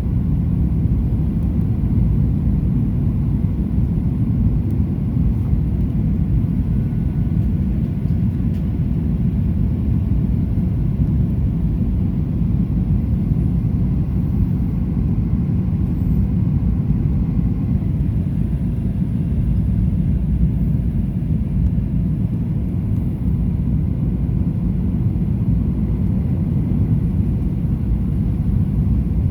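Steady low rumble inside the cabin of a Boeing 737-800 in flight: engine and airflow noise.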